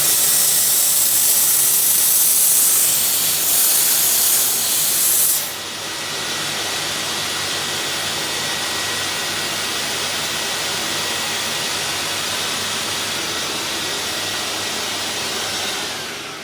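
Steam cleaner jetting steam: a steady hiss, loud for the first five seconds or so, then dropping to a softer hiss that fades out near the end.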